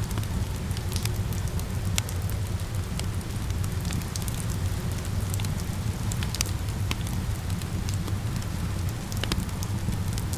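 Wood fire crackling and popping in a fireplace, with scattered sharp pops over a steady rain hiss and a low rumble.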